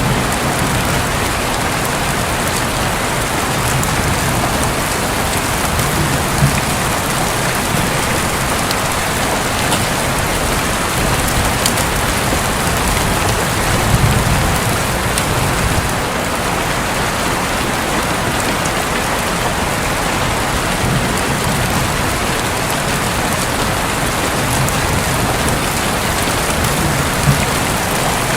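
Heavy rain falling steadily on a roof, an even hiss of drops. About halfway through, a brief low rumble of distant thunder swells and fades.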